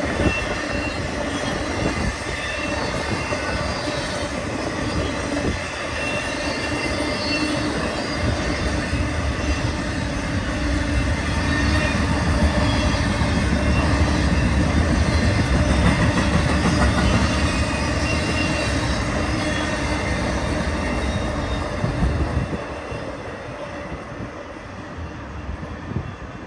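Intermodal freight train cars rolling past on steel rails, with a steady high-pitched squeal of wheels against rail over the rumble. The sound drops off noticeably near the end.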